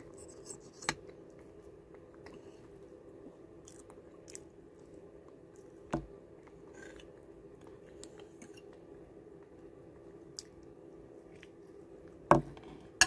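Faint chewing of a soft pancake, with a few sharp clicks of a metal fork against a ceramic plate, the loudest about a second before the end. A low steady hum runs underneath.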